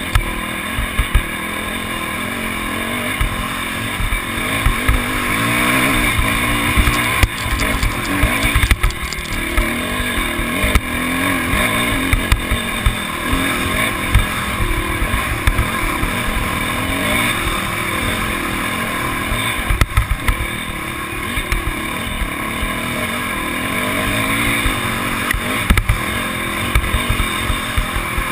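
Motocross bikes' engines running hard, their pitch rising and falling over and over as riders open and close the throttle.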